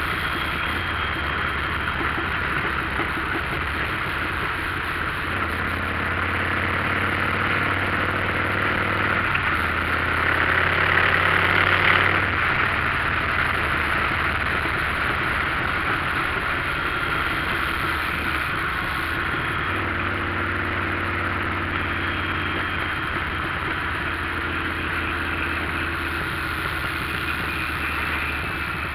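Motorcycle engine running while riding, with wind and road hiss. The engine note changes pitch several times and builds to a peak about twelve seconds in, then drops suddenly.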